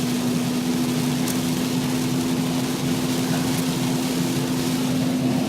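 Cabin noise of a car driving in heavy rain: a steady engine hum over a constant hiss of rain and tyres on the wet road.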